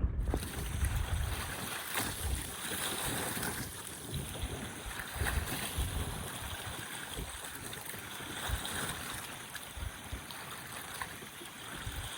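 Wind-driven lake water splashing and lapping against the shore in a gale, with gusts of wind rumbling on the microphone.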